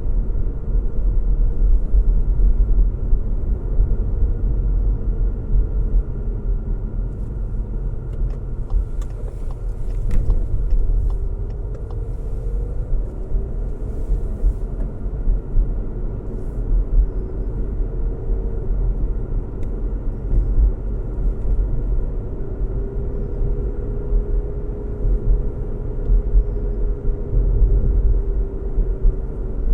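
A car driving on the road: a steady low rumble of engine and road noise with a faint hum that wavers slightly in pitch, and a few faint ticks midway.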